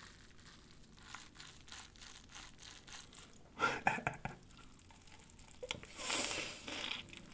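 Close-miked eating sounds from a corned beef sandwich: faint wet mouth clicks, a bite and chew a little after halfway, and a crinkling rustle near the end.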